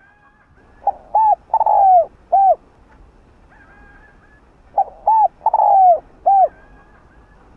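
Spotted dove cooing: two song phrases about four seconds apart. Each phrase has four short notes, and the third note is longer and falls in pitch.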